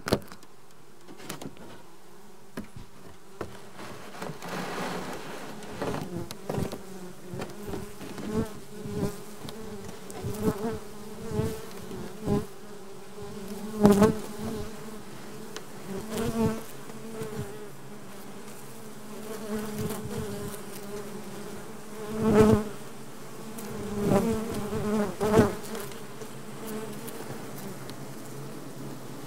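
Honeybee colony humming steadily inside a Japanese-style frameless hive, with many short, louder buzzes and taps as single bees come close.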